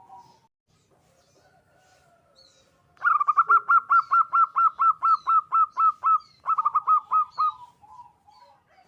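Zebra dove (perkutut) of local stock singing: after a soft coo, a fast run of short staccato cooing notes, about five a second, with a brief break, trailing off into a few lower notes near the end. Faint high chirps of small birds sound above it.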